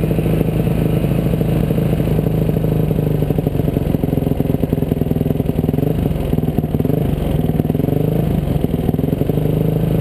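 Dirt bike engine running steadily, its pitch rising and falling a little with the throttle.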